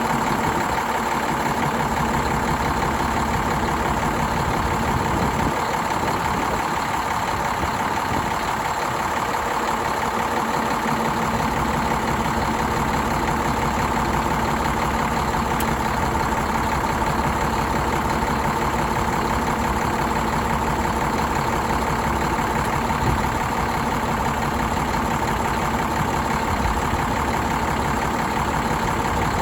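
2006 Cummins ISM inline-six diesel engine idling steadily, an even low running sound with a constant higher hum over it.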